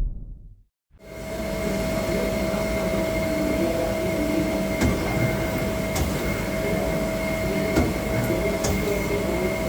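Doosan Lynx 2100A CNC lathe running: a steady mechanical hum with two steady whining tones and a few light clicks, starting about a second in.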